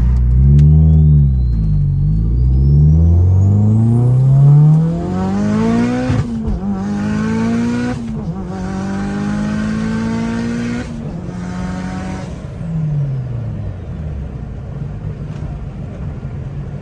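Turbocharged four-cylinder engine of a Mitsubishi Lancer Evo 6.5, fitted with a G25-660 turbo, heard from inside the car under hard acceleration. The revs swing up and down at first, then climb steadily with a rising turbo whistle, and break at gear changes about six and eight seconds in. Near the end the revs fall away as the throttle is lifted.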